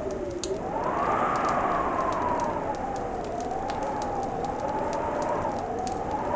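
Fireplace crackle with sharp scattered pops over a steady rushing hiss, joined by a howling whistle of wind that slowly rises and falls in pitch.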